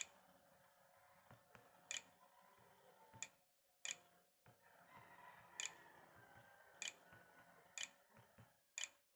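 Faint single mouse clicks, about eight, spaced unevenly a second or so apart: a password being clicked in letter by letter on an on-screen keyboard.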